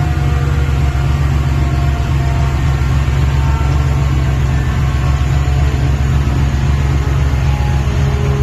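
Built single-turbo 2JZ-GTE 3.0-litre inline-six in a Toyota Supra idling with a steady, even low exhaust pulse through a 4-inch titanium exhaust, holding the same speed without revving.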